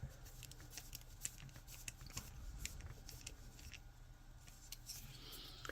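Small pre-cut screw being driven by hand into 3D-printed PLA plastic parts: faint scattered clicks and ticks, with a short light scrape near the end, over a steady low hum.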